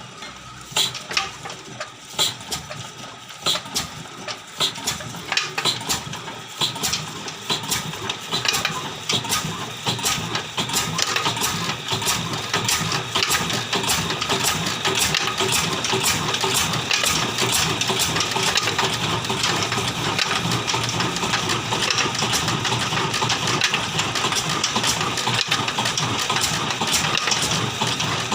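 Old Ruston Hornsby stationary diesel engine picking up speed. Its beats are slow and spaced apart at first, come closer together and louder over the first ten seconds or so, then settle into a steady, even run.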